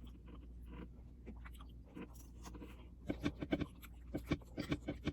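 A person chewing a mouthful of baked macaroni, with faint mouth clicks at first and a denser run of short wet smacks from about three seconds in.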